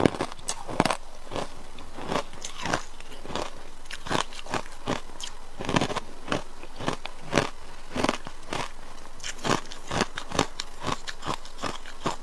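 A person biting and chewing ice, in a steady run of sharp crunches at about two a second.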